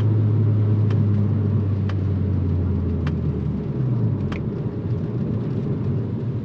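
Mk6 Volkswagen Golf R with a custom turbo-back exhaust, its turbocharged 2.0-litre four-cylinder droning steadily at cruise. About three and a half seconds in, the engine note drops lower and quieter. A few faint ticks sound over it.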